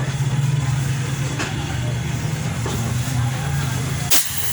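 Steady low mechanical hum, with a sharp click about four seconds in.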